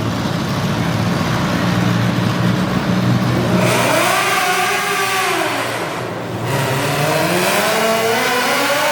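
Modified garden pulling tractor engine running steadily, then revving up and back down in one arc a little past the middle, and climbing in revs again near the end.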